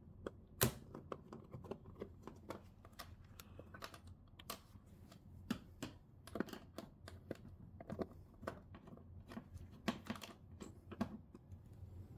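Screwdriver working a loosened screw out of an old TV's casing: quiet, irregular small clicks and taps, with a louder knock every second or two.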